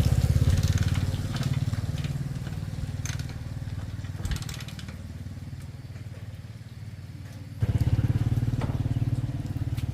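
Yamaha Exciter 125 motorcycle engine running with a rapid, uneven beat, loud at first and easing off, then rising sharply and suddenly about three quarters of the way through. The bike had cut out while being ridden.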